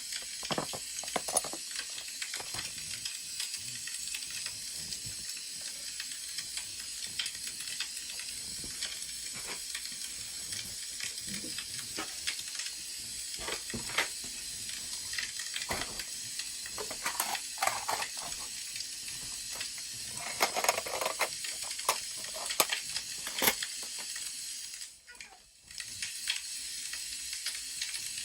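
Crackling wood fire: a steady hiss with irregular sharp pops and snaps of burning logs, busier in a few spells, and dropping out briefly near the end.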